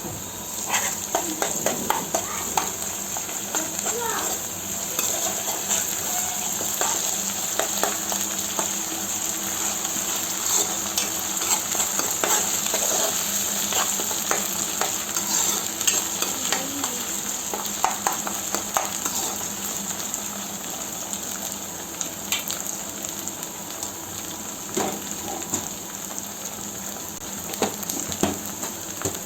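Chopped onions and ginger-garlic paste frying in hot oil in a pan, sizzling steadily while being stirred, with frequent short clicks and scrapes against the pan, busiest in the first two-thirds.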